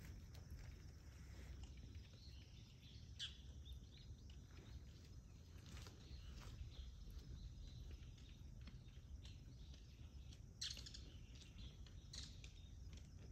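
Quiet outdoor ambience with a steady low rumble and a few short bird chirps, about three seconds in, around six seconds, and twice near the end.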